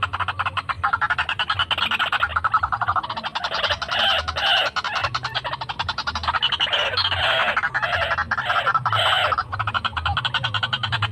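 White-breasted waterhen croaking calls: a fast, continuous rattle of croaks, with louder bursts about four seconds in and again around seven to nine seconds.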